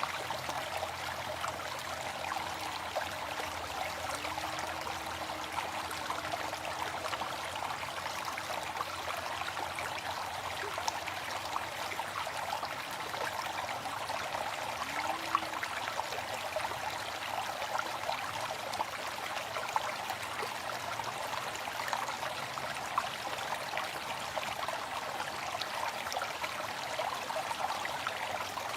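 Waterfall: a steady splashing hiss of falling water, even throughout, with little deep rumble.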